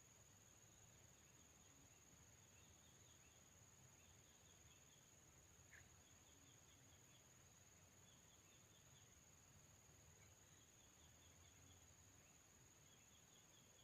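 Near silence: faint outdoor ambience with short runs of high chirps repeating every second or two over a steady faint high hum, and a single small click about six seconds in.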